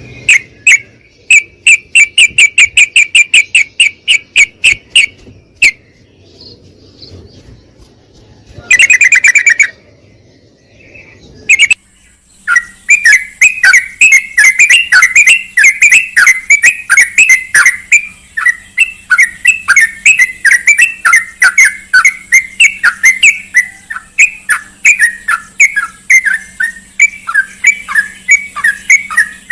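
Yellow-vented bulbul (trucukan) song: loud, fast strings of repeated chirps. After a gap of several seconds with one short burst, the chirps resume about twelve seconds in as a long, continuous run of quick falling notes.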